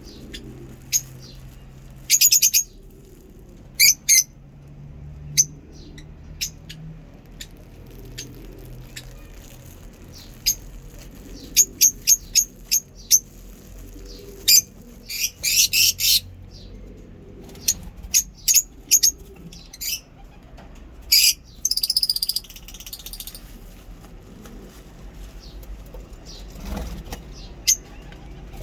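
Lovebirds giving short, shrill chirps, scattered and in quick runs, with a couple of longer bursts of chatter.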